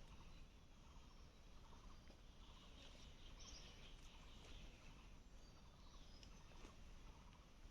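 Near silence, with faint bird chirps a few seconds in over a low background hum.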